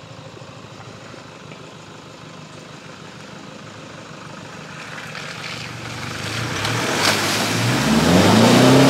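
Toyota Hilux engine running as the ute drives into a deep muddy water hole, louder from about six seconds in, with water washing and splashing around it. Near the end the engine revs up and down as it pushes through the water.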